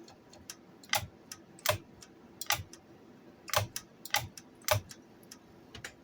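Irregular sharp clicks, about a dozen, from a 1965 Record-O-Fone tape answering machine being worked as it starts coming back to life.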